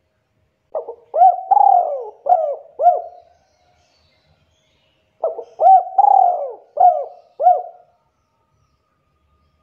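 Spotted dove (tekukur) cooing: two phrases about four and a half seconds apart, each a short first note followed by four rising-and-falling coos.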